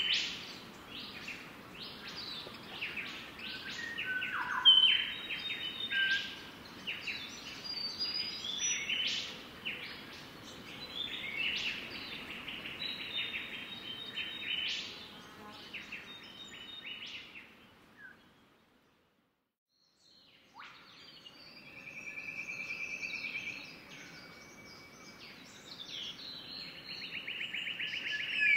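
Several birds chirping and calling over one another, with quick notes and rapid trills. The calls break off for about two seconds about two-thirds of the way through, then resume with a long, even trill.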